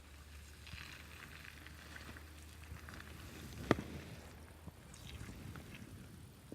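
Skis sliding over snow, a faint uneven hiss over a low steady hum, with one sharp click a little past halfway.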